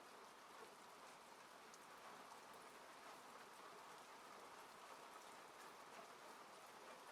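Faint, steady rain falling on a car, with scattered individual drop ticks.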